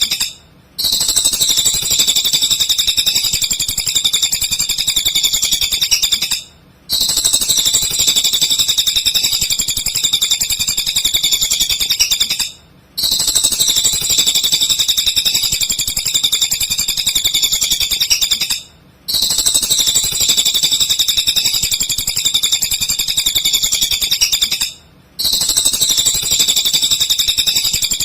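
Cililin bird singing non-stop: a dense, rapid, high-pitched chattering song. It breaks off briefly about every six seconds, in a regular pattern like a looped masteran recording used to tutor white-rumped shamas.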